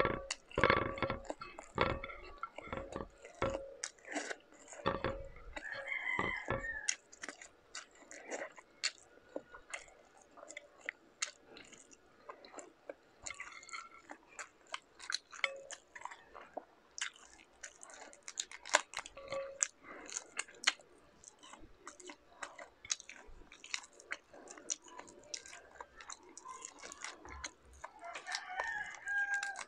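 Chewing and eating of buttered garlic shrimp, with many sharp clicks as the shrimp shells are peeled apart by hand. The chewing is heaviest in the first several seconds.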